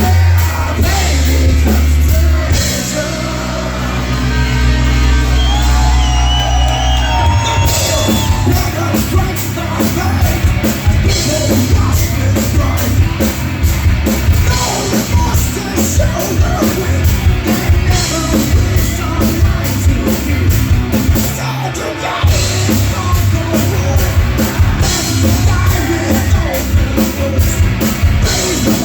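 A live heavy rock band playing loud, with drum kit, bass and guitars and a singer's voice over them.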